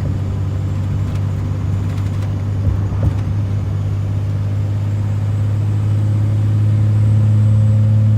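Pickup truck's engine and drivetrain droning steadily inside the cab while cruising with the automatic transmission in its top gear or torque-converter lock-up, at a steady pitch and growing a little louder toward the end.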